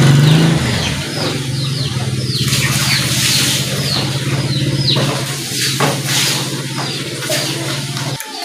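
A steady low mechanical hum, like an idling engine, cuts off abruptly near the end. Over it, a bird gives repeated short chirps that drop in pitch, and there are a few sharp clicks.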